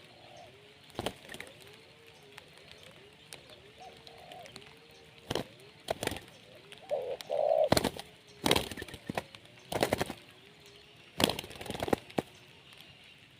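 Spotted dove (terkukur) cooing, a run of short arched coo notes repeated about twice a second. Several loud sudden knocks break in during the second half.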